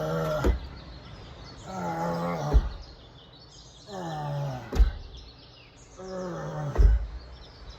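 Bear-like growling roars, four of them about two seconds apart, each falling in pitch and ending with a heavy thump.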